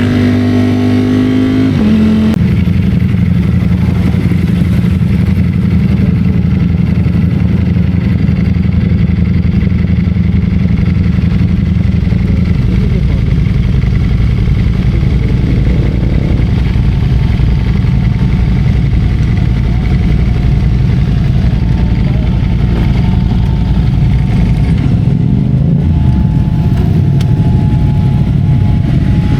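Ducati Streetfighter V4S's V4 engine running under way, heard from on the bike; its pitch drops in a step about two seconds in, like an upshift, then holds steady at cruising revs.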